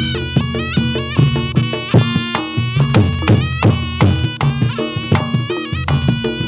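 Reog Ponorogo gamelan playing Jathilan dance music: a reedy slompret (Javanese shawm) melody moving in quick steps over a steady beat of drum and struck gong-chime percussion.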